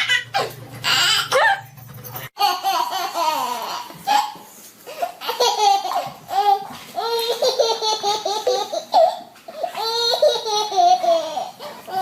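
Small child laughing hard in repeated high-pitched bouts of giggles and belly laughs. The laughter is cut abruptly about two seconds in and picks up again straight after.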